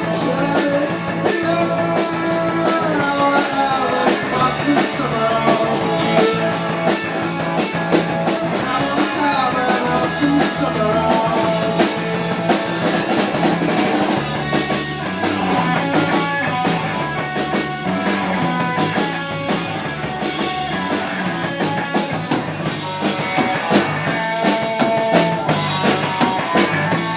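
Live rock band playing a song.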